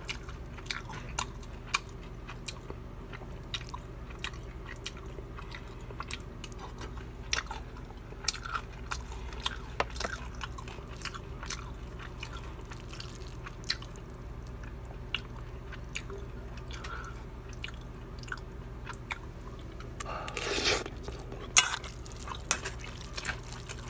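Close-miked eating: chewing with scattered crisp crunches and clicks from biting into fried dumplings and bibim-myeon noodles, over a steady low hum. Near the end comes a longer, louder noisy burst as a mouthful of noodles is slurped.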